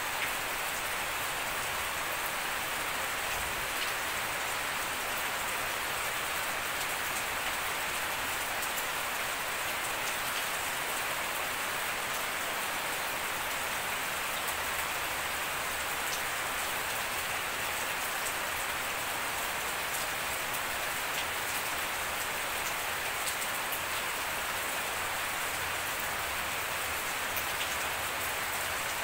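Steady rain falling on grass, puddled ground and leaves: an even hiss with faint scattered drop ticks.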